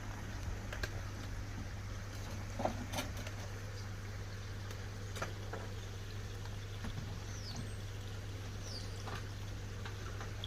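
Steady low hum with scattered light clicks and knocks, and two brief high chirps near the end, typical of small birds.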